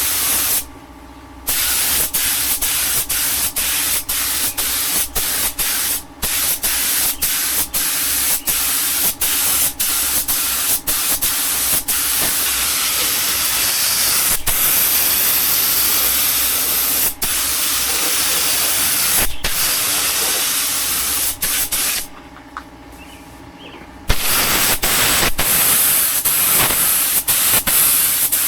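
Paint spraying: a steady loud hiss as a coat of clear is sprayed onto the engine bay. It stops briefly a few times, once for about two seconds near the end, as the spraying pauses.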